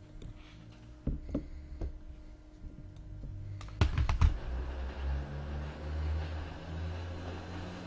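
Computer keyboard typing: a few scattered key clicks about a second in, then a quick run of louder clicks about four seconds in, followed by a low steady rumble.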